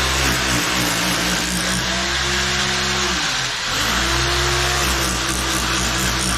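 An engine running steadily, its pitch dipping and coming back up about every three and a half seconds, as if under changing load.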